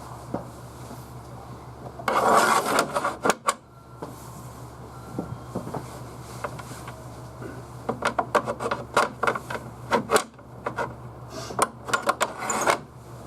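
Steady low hum of a stationary JR Central 311 series electric train's onboard equipment. Over it come bursts of clattering and rubbing noise about two seconds in, then again from about eight seconds in until near the end.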